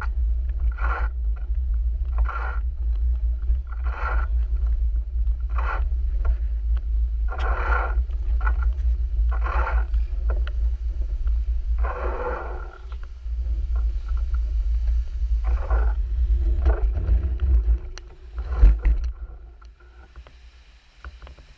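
Wind rumbling on the microphone of a moving bicycle, with short scraping bursts about once a second. Near the end the rumble stops with a loud knock, and it goes much quieter.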